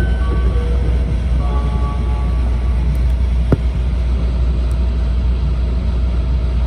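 Steady low rumble inside an E4 series double-deck Shinkansen car as the train runs, with a few faint high tones in the first two seconds and a single sharp click about three and a half seconds in.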